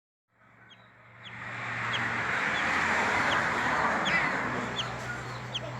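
Guacharaca (chachalaca) chick peeping: short, high, falling peeps repeated roughly every two-thirds of a second. Underneath, a rushing noise swells up in the first second or two and fades toward the end, with a low steady hum.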